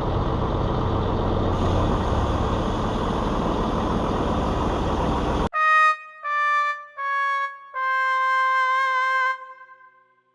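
A loud, steady rush of truck noise cuts off suddenly about five and a half seconds in, replaced by a "sad trombone" gag sound effect: four descending brass notes, the last held with a wobble and fading out.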